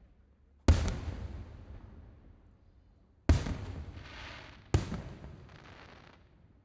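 Aerial fireworks shells bursting: three sharp booms, each trailing off in a rolling echo, the second and third followed by about a second of high crackling hiss.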